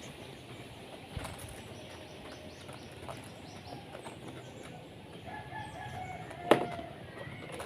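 Chickens flapping their wings and moving about in their coop, with a few faint calls in the second half. A single sharp knock about six and a half seconds in is the loudest sound.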